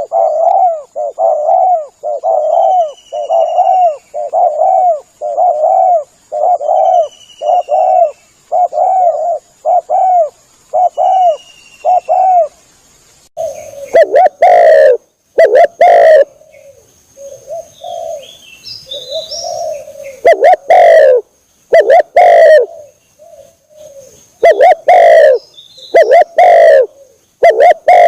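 Spotted dove cooing as a hunting lure: a steady run of short coos, about one and a half a second, then from about halfway louder, distorted coos in uneven groups. Thin, falling chirps of a small bird sound faintly in the first half.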